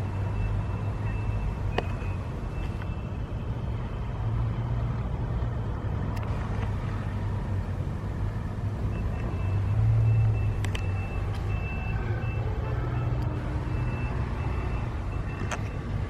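A motor vehicle's engine running steadily with a low hum, with a faint high beeping tone that comes and goes.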